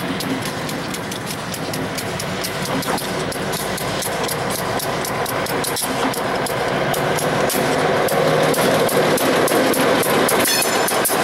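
Slow-moving diesel-hauled freight train: a steady engine drone under rapid clicking and clanking of wheels on the rails, growing louder toward the end.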